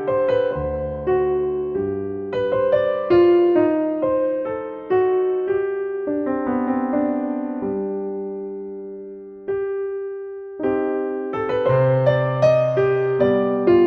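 Slow, gentle piano music: single notes and chords struck and left to ring out, with a long fading held chord around the middle before the playing picks up again.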